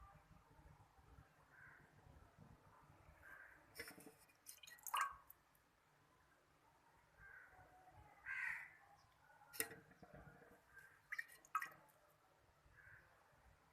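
Baby chicks peeping softly and sleepily, short faint calls every second or so, with a few sharp clicks or taps in between.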